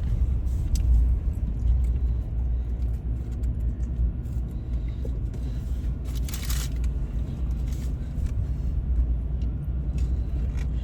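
Steady low road and engine rumble inside a moving truck's cabin, with a brief hiss about six seconds in.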